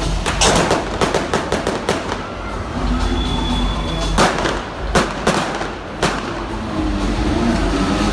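Stunt-show pyrotechnic bangs: a rapid volley of sharp cracks in the first two seconds, then three single loud bangs about a second apart, with a car engine running underneath.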